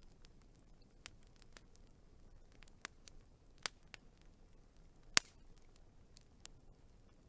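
Wood fire crackling: scattered sharp pops over a faint hiss, with one much louder pop about five seconds in.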